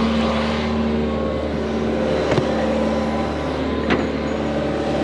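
120 excavator's diesel engine running steadily as it lays drainage pipe into the ditch, with a couple of short knocks about two and four seconds in.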